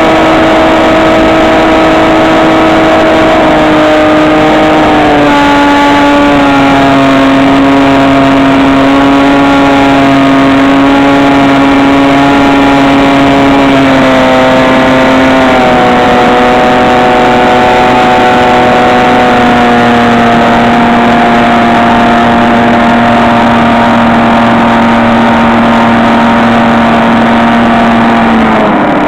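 Electric motor and propeller of a HobbyKing SkyEye FPV plane running steadily, a loud, constant whine. Its pitch drops in two steps, about four and fifteen seconds in, as the motor slows.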